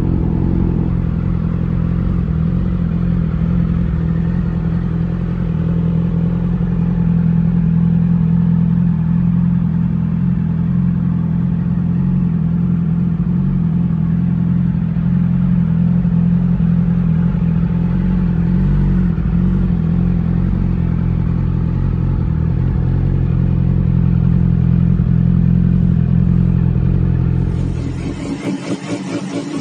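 2009 Yamaha R6's inline-four engine idling steadily through its exhaust. About 28 seconds in, the sound changes abruptly to a thinner, choppier engine note.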